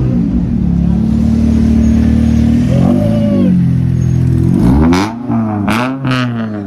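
Car engine idling loud with quick throttle blips: short rises and falls in pitch at the start and about three seconds in, then two sharp, harsher revs near the end.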